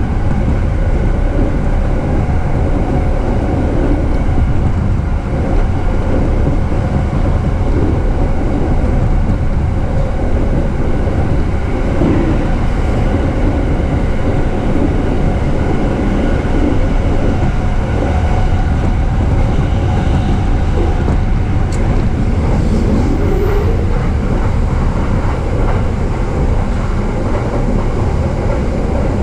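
JR East E233-series commuter train running along the line, heard from inside the car: a steady, loud low rumble of wheels on rail with a few steady tones running through it.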